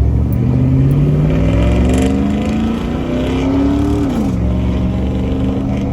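Chevy Avalanche V8 running through a muffler-deleted Gibson exhaust (factory catalytic converters, no muffler), accelerating from a pull-out. The engine note climbs steadily, drops sharply about four seconds in as the transmission shifts up, then holds steady.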